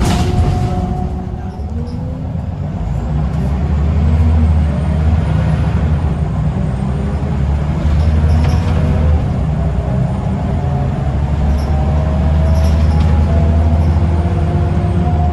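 Scania L94UB bus's diesel engine running hard under load, with a whine from the driveline that rises and falls in pitch. A short hiss of air at the start; the engine eases off briefly about a second and a half in, then climbs again.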